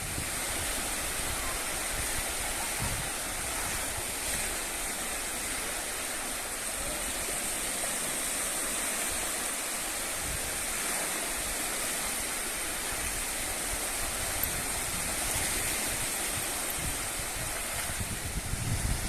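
Steady rushing noise that holds level without pauses, with a thin, high, steady hiss above it.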